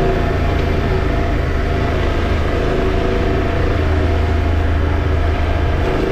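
Motorcycle engine running at a steady, even speed, with a constant low hum and road and wind noise over it.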